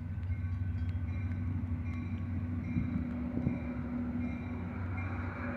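Metra commuter train passing slowly over a grade crossing: a steady low drone from the diesel locomotive and rolling cars, with a crossing warning bell ringing repeatedly.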